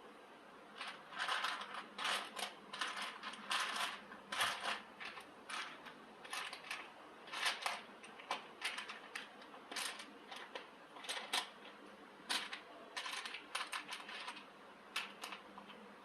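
Short, irregular mechanical clatters and scrapes, one or two a second, over a faint steady hum.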